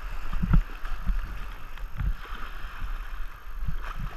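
Moving river water rushing steadily, with low wind buffeting on the microphone and a few dull thumps.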